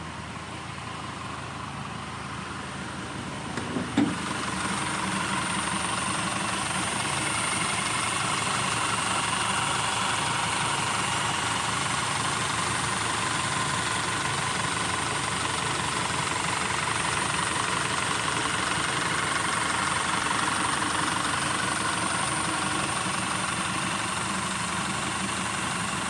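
Audi Q5 engine idling steadily. A brief sharp knock comes about four seconds in, after which the engine is louder.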